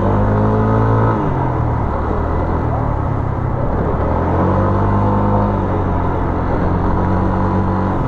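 Vehicle engines running and revving in busy street traffic, their pitch rising and falling twice, over a constant noisy din.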